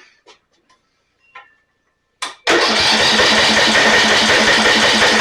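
Electric starter cranking a 12.5 hp Briggs & Stratton engine with its spark plug out, starting suddenly about two and a half seconds in and running on with a fast, even chug. This is a spark check, and the engine does not fire: there is no spark.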